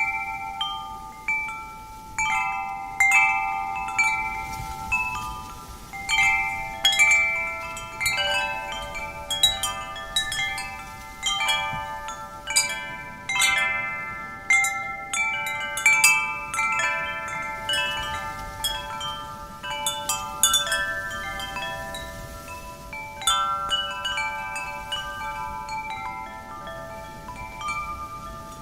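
Metal wind chimes ringing, struck at irregular moments so that clear ringing tones overlap and fade into one another, over a faint wind.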